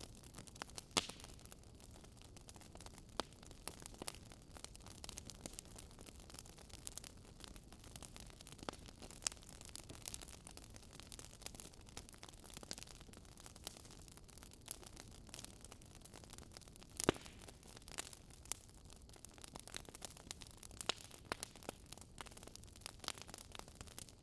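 Wood fire crackling faintly: irregular sharp pops and snaps over a steady low hiss.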